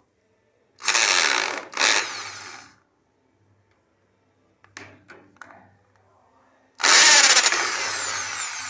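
Cordless drill-driver on its hammer setting, run in reverse to break loose tight Phillips screws on a moped's clutch cover: two short bursts about a second in, a few light clicks, then a longer, louder burst near the end.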